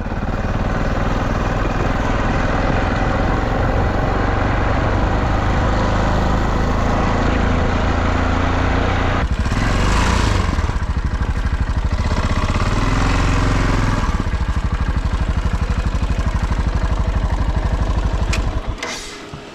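Dirt bike engine running loud under way, its note rising and falling with the throttle, then dropping away near the end.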